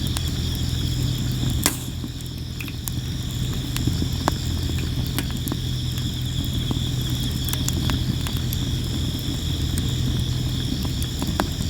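Sawara cypress firewood burning, crackling with frequent sharp pops; one louder pop comes just under two seconds in. Insects chirp steadily behind it over a low steady hum.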